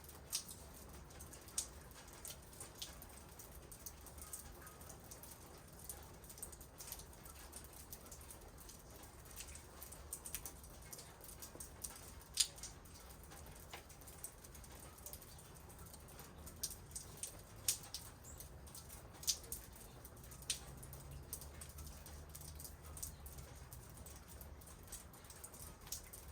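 Scattered raindrops and drips tapping irregularly on hard surfaces, a few sharper taps standing out, over a faint low steady rumble. A faint low hum comes in during the second half.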